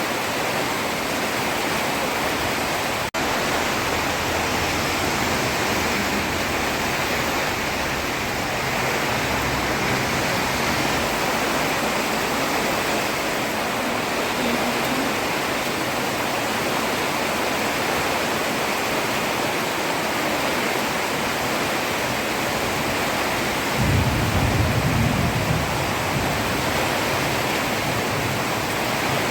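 Heavy rain pouring steadily onto a road, a dense, even hiss. It cuts out for an instant a few seconds in, and a brief low rumble rises under it near the end.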